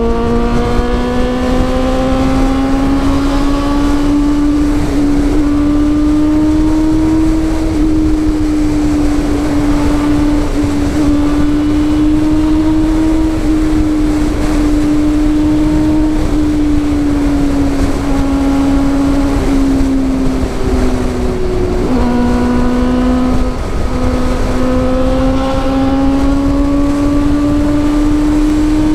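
Honda CB400 inline-four engine with a Two Brothers aftermarket exhaust, running hard at steady high revs while riding. The pitch climbs slowly and holds, then drops suddenly about 22 s in at a gear change and climbs again.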